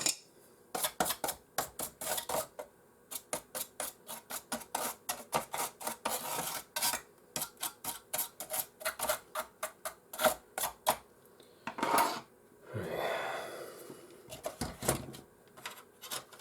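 Rapid, irregular small hard clicks and taps of tools against the plastic and metal parts of a PlayStation 4 being taken apart, with a brief rubbing scrape a little after twelve seconds in.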